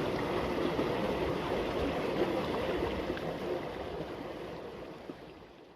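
Water running steadily in a small irrigation ditch, an even rushing hiss that fades out near the end.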